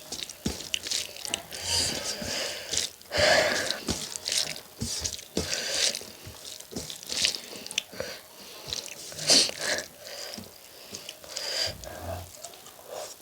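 A person eating rice and chicken curry close to the microphone: irregular wet chewing, smacking and clicking mouth sounds, loudest about three seconds in and again near nine seconds.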